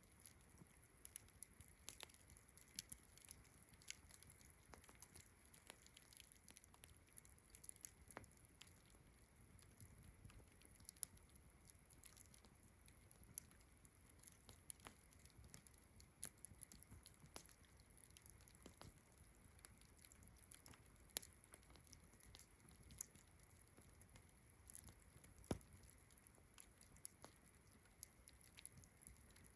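Wood campfire crackling with irregular sharp pops and snaps, several a second, a few louder pops standing out. A steady high-pitched chorus of crickets runs underneath.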